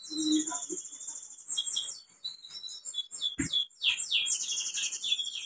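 A songbird singing, a run of quick high chirps and downward-sliding notes, with a single low thump about three and a half seconds in.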